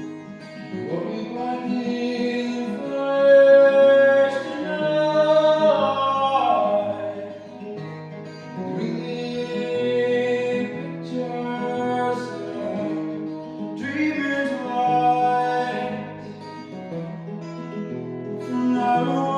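A song performed on acoustic guitar with a voice singing over it. The guitar sounds alone in short gaps between sung lines.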